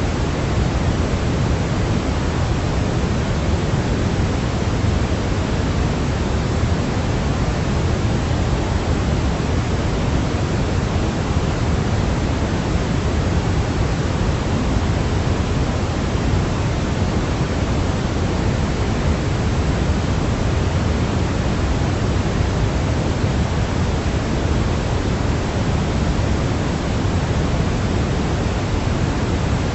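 Generated sleep noise for a baby: a steady, unchanging hiss, fuller in the low end than in the highs.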